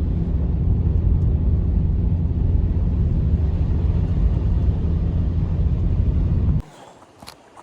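Strong blizzard wind buffeting the microphone: a loud, steady low rumble that cuts off abruptly about six and a half seconds in, leaving a faint hiss with a few light ticks.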